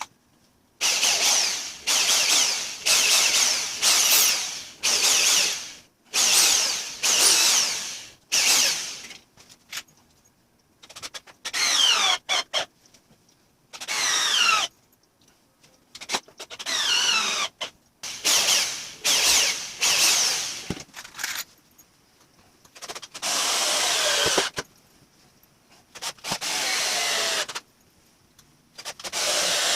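Power drill run in many short bursts, each a second or two long, driving into wood. In several bursts the motor's pitch sags as it loads up.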